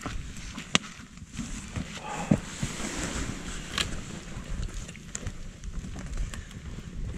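Newly lit campfire of brushwood crackling, with a few sharp pops, over wind rumble on the microphone.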